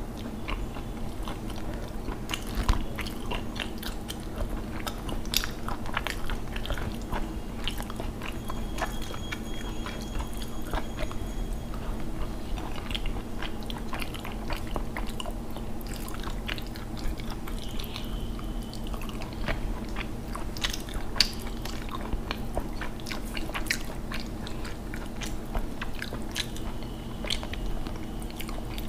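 Close-miked chewing and mouth clicks of a person eating rice with fish curry from the hand, with short wet clicks and squelches as the fingers work the rice on the plate. It is an irregular run of small clicks throughout, over a steady low hum.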